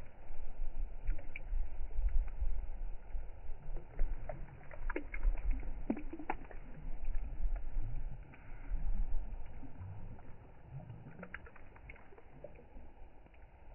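River waves rolling in and lapping against the shore, a surging low rumble with scattered small splashes and gurgles; the surges ease off for the last few seconds.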